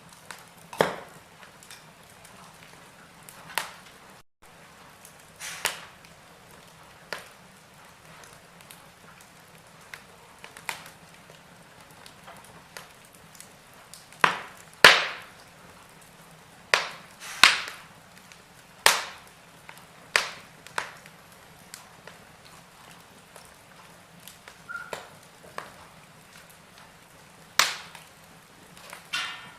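Wood fire crackling in a fireplace: a dozen or so sharp, irregular pops and snaps over a faint steady hiss, with the loudest snaps around the middle.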